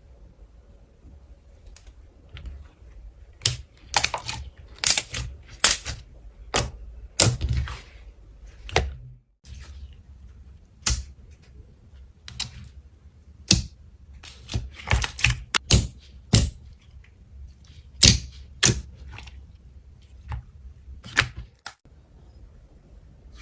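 Slime being pressed and poked by hand, giving irregular sharp clicks and pops that come in clusters with short pauses between them.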